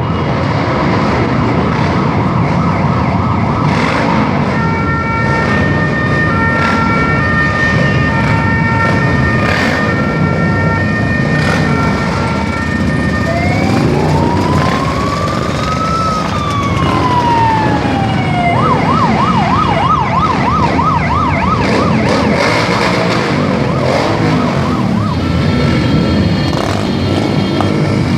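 Sirens of a police-style motorcycle escort sounding over the running engines of the passing motorcycles: steady alternating tones, then a slow wail that rises and falls once, then a fast yelp, and steady tones again near the end.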